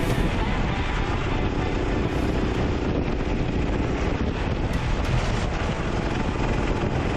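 Racing kart engine running at speed on track, heard from onboard with wind noise on the microphone.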